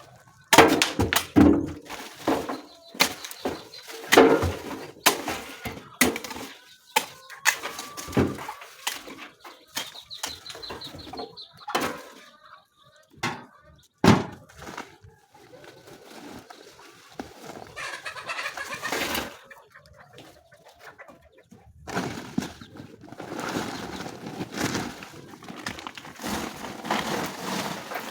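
Chickens clucking amid irregular sharp knocks and clatter, with a denser rustling, clattering stretch near the end.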